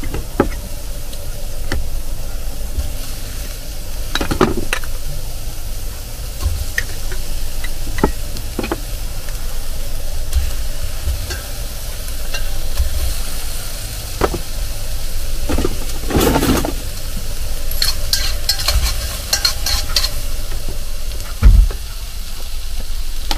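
Potatoes sizzling in a pot on a camping gas stove, frying dry without any oil. A utensil scrapes and clinks against the pot now and then, with a burst of clinks a little past the middle and a low thump near the end.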